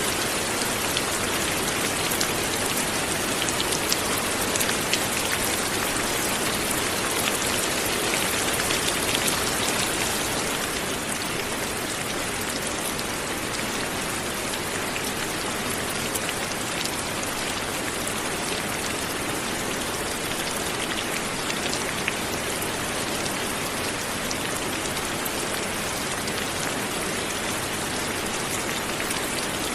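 Steady light rain falling, a continuous hiss with scattered individual drop ticks, a little heavier for the first ten seconds or so.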